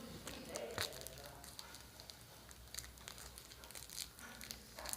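Plastic food wrappers being crinkled and crumpled in the hand, a run of irregular sharp crackles.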